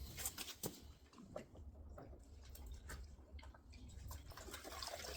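Faint water sloshing and scattered small clicks as a dirty wash sponge is dunked and worked in a bucket of rinseless wash solution.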